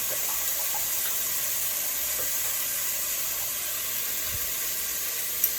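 Cubed chicken sizzling steadily in hot oil with chili and curry paste in a pot, with a single light click near the end.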